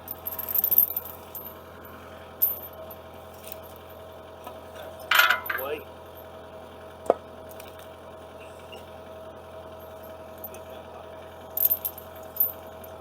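Steel chain clinking and rattling in short bouts as it is handled, over a steady low engine hum.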